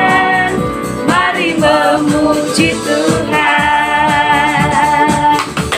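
Upbeat children's worship song, singing over band accompaniment with a steady beat, ending on one long held note.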